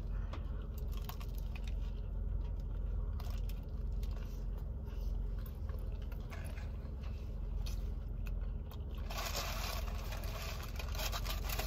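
Chewing a bite of a toasted sub sandwich, with soft crunching and small mouth clicks over a steady low rumble. A rustling noise lasts about two seconds near the end.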